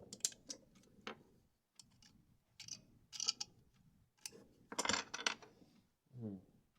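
Plastic Lego bricks clicking and rattling as they are handled and pressed together, in several short clusters of clicks. Near the end there is a short rising squeak.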